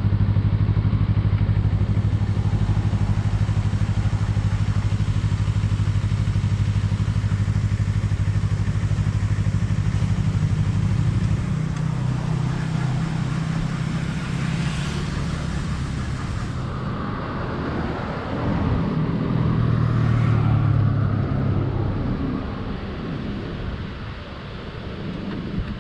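Kawasaki Z250's parallel-twin engine through an aftermarket SeaPro muffler, running steadily at cruising speed. About eleven seconds in the engine note drops as the rider eases off. It picks up again briefly, then falls away again near the end as the bike slows.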